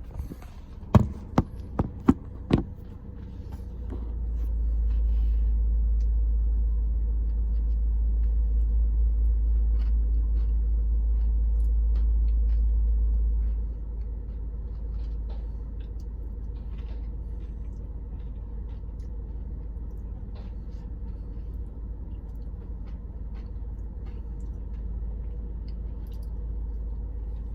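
A few sharp knocks about a second in, then a steady low rumble inside a car cabin, louder for about ten seconds before dropping to a lower level, with faint ticks over it.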